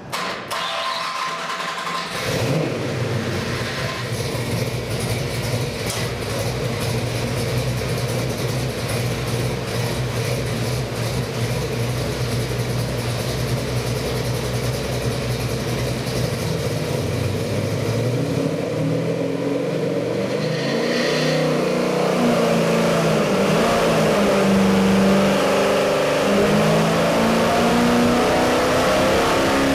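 Ford 351 Cleveland–based 393 stroker V8 with a hydraulic roller cam, running on an engine dyno. It comes in about two seconds in and holds a steady idle. From about 18 seconds the revs rise and fall, then climb steadily and grow louder toward the end under dyno load.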